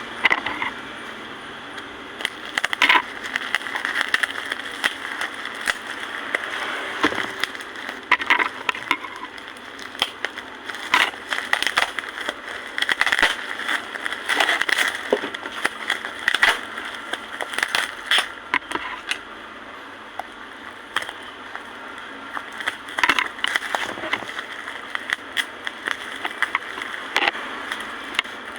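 Parcel packaging being opened and handled by hand: irregular crinkling and crackling with many sharp clicks, going on throughout.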